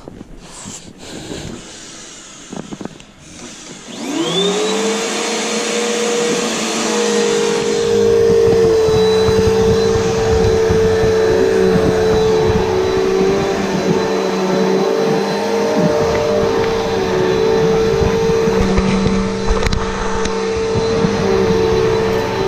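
Upright vacuum cleaner switched on about four seconds in, its motor spinning up with a rising whine and then running steadily at full speed. A few light knocks come before it starts.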